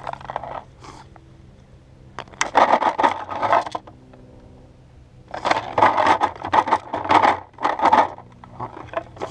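Hands rummaging through a container packed with golf balls, the balls clattering and scraping against each other, in two bursts: one about two seconds in and a longer one from about five to eight seconds.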